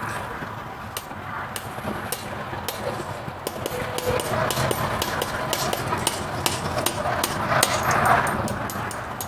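Farrier tools working on a horse's hoof and shoe: irregular quick taps and clicks, several a second, over a steady scraping noise.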